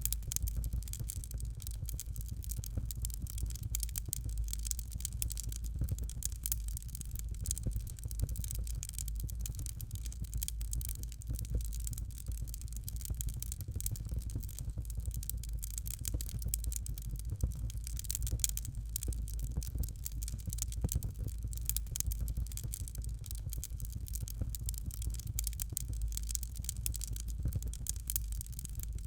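Fire crackling in a fireplace: a dense stream of small crackles and pops over a steady low rumble.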